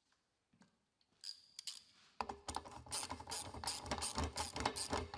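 Rapid, irregular ratcheting clicks from a hand tool in a workshop, starting about two seconds in after a near-silent start.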